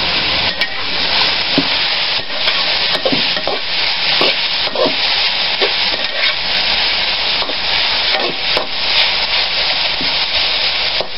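Chopped food with shallots sizzling steadily in a hot wok, stirred with a metal spatula that scrapes and knocks against the pan every second or so.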